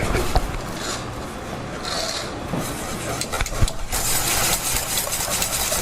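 Continuous scraping and rubbing with a few sharp knocks, growing denser and brighter about four seconds in.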